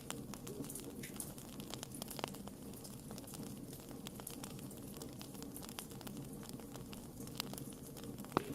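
Wood fire burning steadily, with irregular sharp crackles and pops over a low rush of flame; one louder pop near the end.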